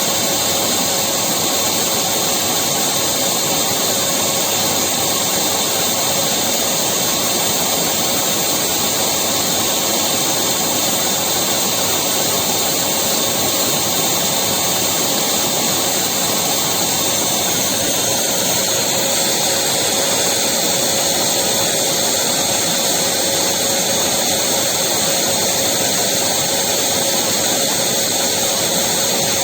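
Electric vacuum cleaner running steadily: an even motor noise with a steady tone through it, its pitch colour shifting slightly a little past halfway.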